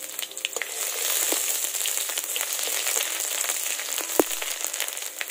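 Garlic paste sizzling and frying in hot mustard oil in a wok, stirred with a metal spatula. The sizzle grows louder about a second in, with scattered small clicks of the spatula against the pan and one sharp knock near the end.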